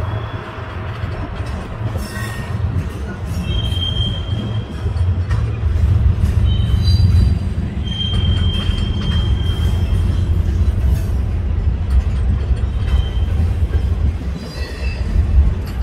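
Freight train cars rolling past with a steady low rumble, and high wheel squeals coming and going, the longest lasting about two seconds around eight seconds in.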